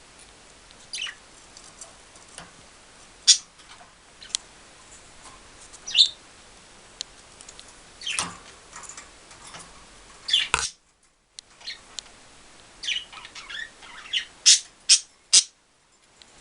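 Pet budgerigars chirping in scattered short, high calls, ending with a quick run of three loud chirps.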